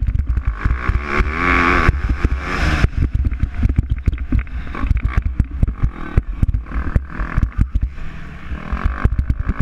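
MX2 motocross bike engine revving hard, rising and falling in pitch from about one to three seconds in, over a constant low rumble and rapid irregular crackling.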